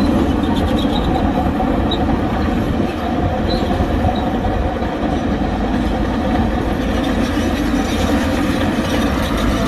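Heavy diesel earthmoving machinery running steadily, a loud low rumble with a few faint, brief metallic squeaks.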